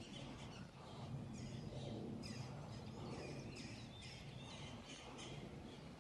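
Birds chirping and singing over and over, over a low steady rumble of outdoor background noise.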